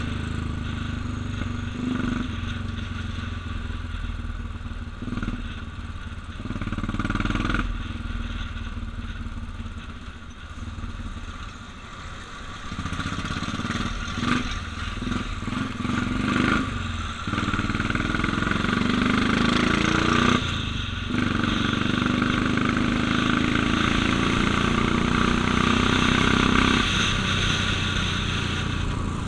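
Royal Enfield 350 cafe racer's single-cylinder engine heard while riding, its revs rising and falling through the gears. It eases off around a third of the way in, then pulls harder and runs louder and steadier through the second half.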